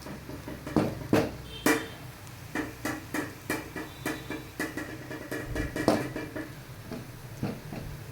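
A metal ladle stirring frying ingredients in a metal kadai, knocking and scraping against the pan about twice a second, some strokes leaving a brief metallic ring.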